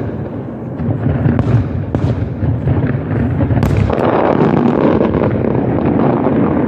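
Fireworks display going off in a dense, continuous barrage of overlapping booms, with a sharp crack about three and a half seconds in and more crackle after it.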